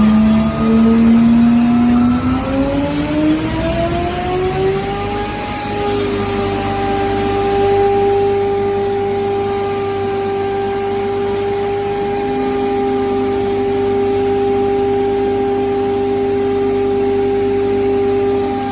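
Hammer mill driven by a 55 kW electric motor spinning up, its whine rising in pitch for about six seconds, then running steadily at full speed with a constant high hum.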